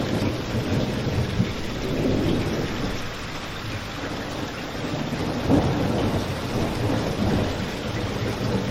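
Steady rain with a low rumble beneath it and a wood fire crackling, with one louder pop about five and a half seconds in.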